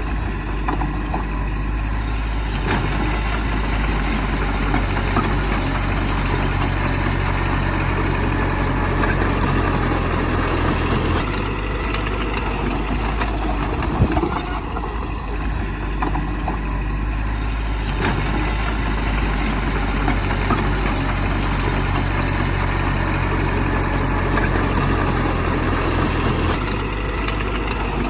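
Heavy diesel engine of earth-moving machinery running steadily, its note shifting a couple of times, with a few sharp clanks.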